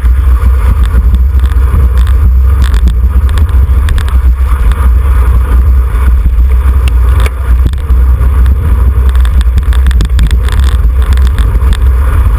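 Wind buffeting the microphone of a camera riding along on a bicycle in a road race: a loud, steady low rumble, with scattered clicks and rattles from the bike over the road.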